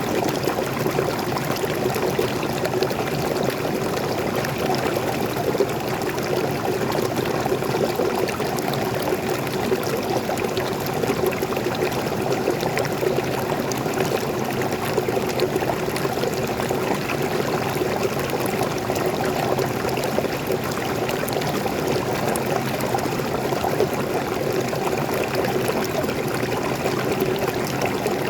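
Waterfall running steadily: an even, unbroken wash of falling and flowing water, fullest in the lower-middle range.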